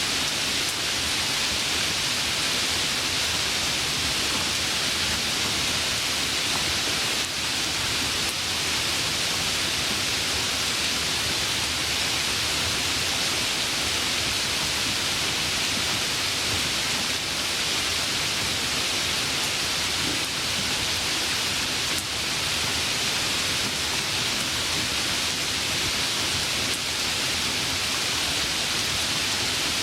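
Heavy rain falling steadily: a dense, even hiss with no breaks or thunder.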